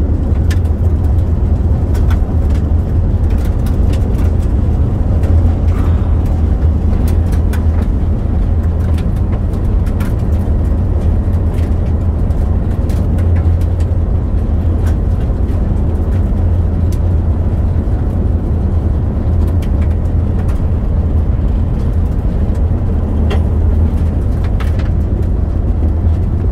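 A car driving at speed, heard from inside the cabin: a steady low road and engine rumble with scattered small ticks and clicks throughout.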